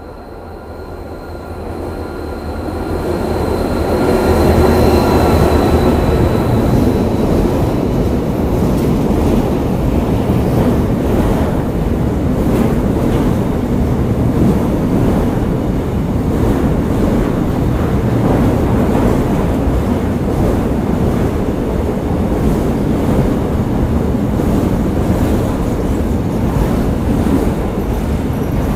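A train arriving and running past the station platform. Its rail noise builds over the first four seconds while a faint high ringing fades, then it settles into a steady loud rumble of wheels on track, with a clattering rhythm as the cars go by.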